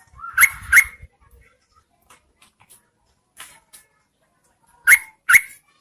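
Yellow-vented bulbul giving short, sharp call notes in pairs: two quick notes about a second in and two more near the end, with faint ticks between. These are female calls, the kind used as a lure to draw males to answer.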